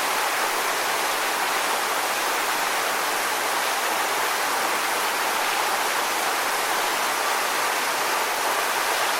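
Steady rushing water, an even hiss like a waterfall or stream with no rise and fall, cutting off abruptly at the very end.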